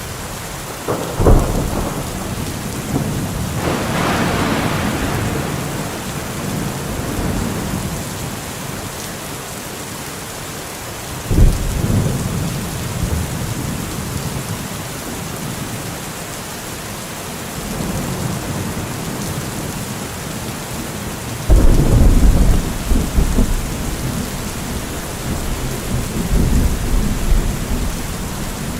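Steady heavy rain with thunder: sudden low claps about a second in, about eleven seconds in and about twenty-one seconds in, each trailing off into rolling rumble, the last the loudest and longest.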